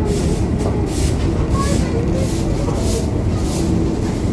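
Steady, loud rumble of running factory machinery, with a high whooshing swell that repeats about twice a second.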